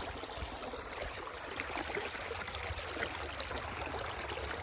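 Creek water flowing and trickling over rocks: a steady, even rushing hiss.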